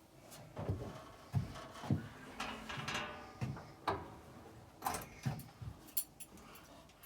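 Irregular metallic knocks and clunks of tools and parts being handled on a Woodland Mills HM130 bandsaw mill as the blade is refitted and the blade guides adjusted, a few of them ringing briefly.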